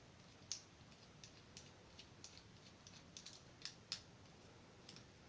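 Faint, irregular light clicks of a triangle-bit screwdriver working the screws out of a plastic toy train's base, with the plastic body being handled.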